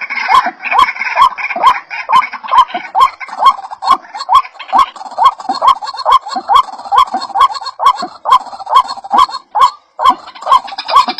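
White-breasted waterhen (ruak-ruak) calling over and over from a lure recording: short hooked notes, about three a second, in a loud, even run with a brief break near the end.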